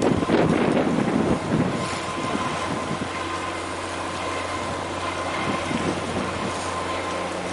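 Wind buffeting the microphone for about the first two seconds, then a steady low engine hum with a faint high whine over it.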